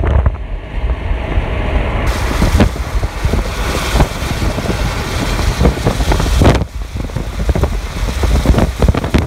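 Strong wind buffeting the microphone in heavy, uneven gusts with a low rumble. A loud hiss comes in about two seconds in and cuts off suddenly about halfway through.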